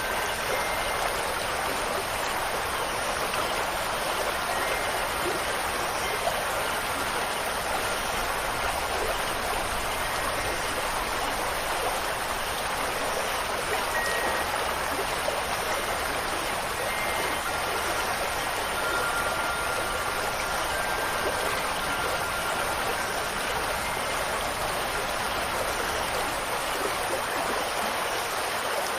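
Steady, unbroken rush of running water, with a few faint, high wind-chime tones ringing briefly now and then.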